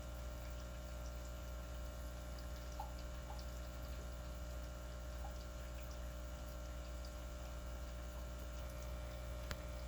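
Aquarium water bubbling and trickling in a hang-on breeder box, over a steady low hum. There are a few faint pops, and a single sharp click near the end.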